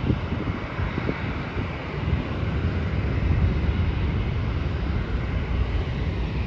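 Jet airliner engines heard from a distance as a steady rumble, mixed with wind buffeting the microphone.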